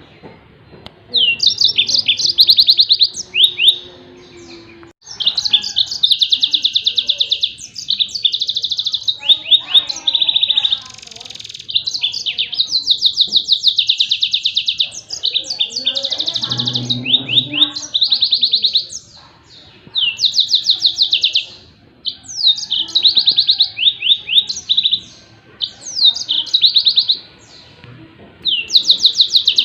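Mozambique canary (yellow-fronted canary) singing its rapid-fire 'tembakan' song: high, fast trilled phrases of a second or two each, repeated with short pauses between them.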